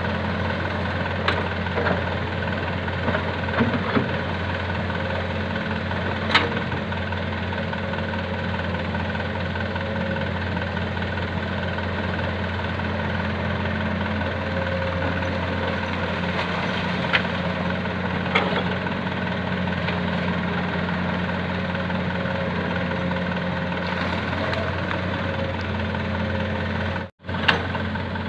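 Diesel engine of a Komatsu PC200-6 excavator running steadily, with a few sharp metallic knocks scattered through. The sound cuts out for a moment near the end.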